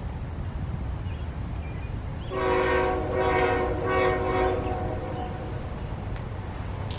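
Freight diesel locomotive air horn sounding with several notes for about two and a half seconds, swelling three times, over a steady low rumble.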